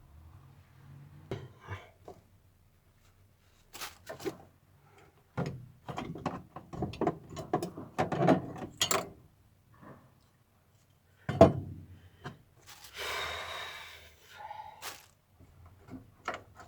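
Hand work on the fuel pump assembly: a run of knocks and clatter of parts and tools, then one loud thunk, followed by a short scraping or rustling noise.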